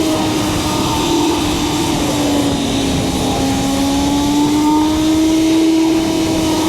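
BMW S1000RR's inline-four engine running at a steady cruise, its pitch sagging slightly about three seconds in and climbing back, over a dense rumble of wind on the microphone.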